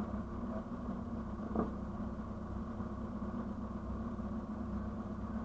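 Car engine idling steadily, picked up by a camera mounted on the bonnet, with one short knock about a second and a half in.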